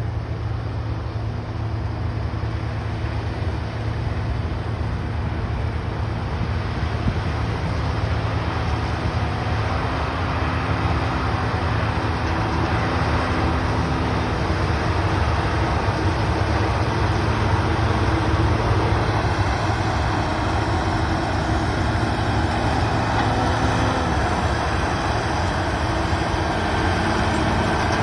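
Combine harvester running steadily while cutting wheat: a constant low engine hum under a rushing noise that builds slightly over time.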